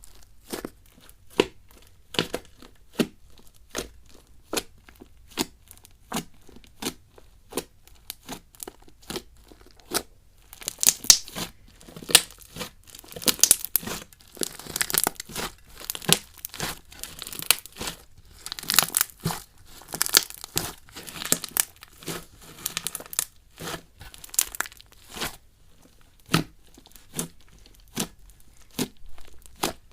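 Slime being squeezed and poked by hand, making sharp wet clicks and pops about once or twice a second, with a denser run of crackling through the middle.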